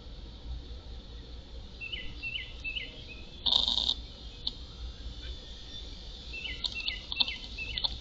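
Birds chirping outdoors: three short, quick chirps about two seconds in and four more near the end. A loud, harsh half-second call sounds in between, and a few sharp clicks come with the last chirps.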